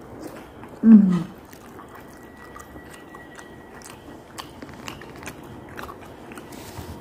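A person biting and chewing grilled chicken satay, with small wet mouth clicks scattered throughout. About a second in, a short loud voiced sound falls in pitch.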